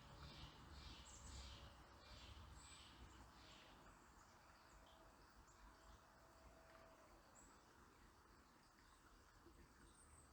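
Faint river ambience: a soft, even hiss of flowing water. Over it, a small bird gives a run of quick repeated high calls for the first few seconds, with a few thin, very high chirps scattered later.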